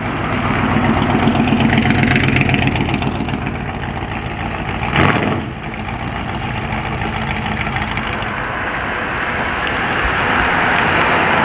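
A car engine running close by, its exhaust pulsing steadily, with a short louder swell about halfway through.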